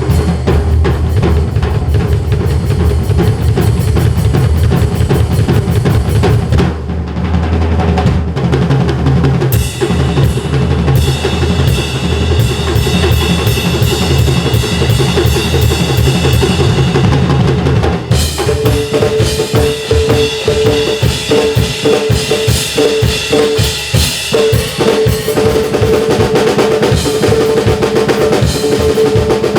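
Drum kit played fast in a drum sanjo piece: dense snare and bass drum strokes and rolls. About eighteen seconds in, a held pitched note comes in under the drumming.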